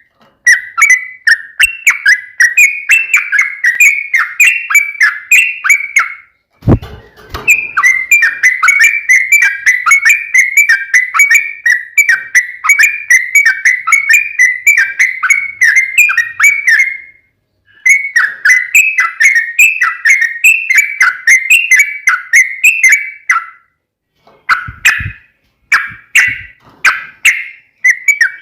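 Sooty-headed bulbul song: long, fast runs of loud whistled chattering notes in the 'ropel panjang' fighting style, broken by a few short pauses. A low thump comes about seven seconds in and another near the end.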